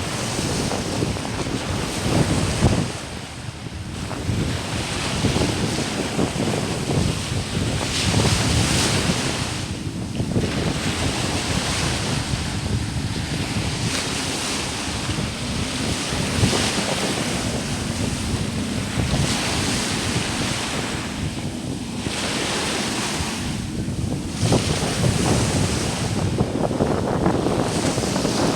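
Sea waves breaking and washing up the sand, swelling and falling back every few seconds, with wind buffeting the microphone.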